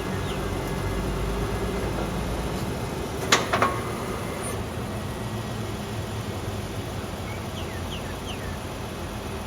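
A heavy truck's engine running steadily, with a sharp knock and two smaller knocks a little over three seconds in, and a few faint bird chirps near the end.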